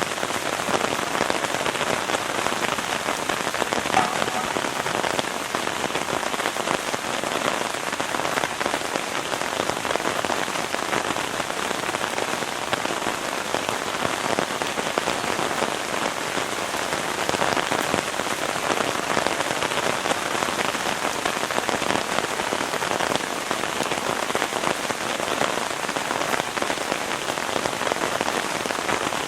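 Heavy rain falling steadily, a dense, even patter of raindrops striking a surface.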